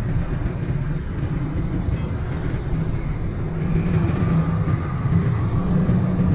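Motorcycle engine running steadily with a low, rough rumble; a faint thin whine comes in about four seconds in.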